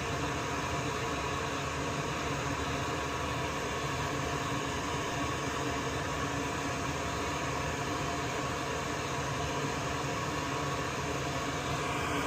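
Steady fan-like rushing noise with a few faint steady tones in it, unchanging throughout.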